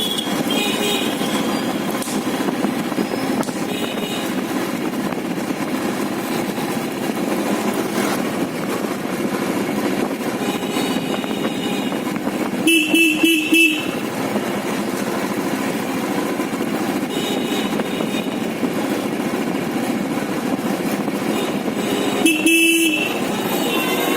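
Motorcycle riding in traffic: steady engine and road noise, with a vehicle horn sounding a quick series of short toots about halfway through and one short toot near the end.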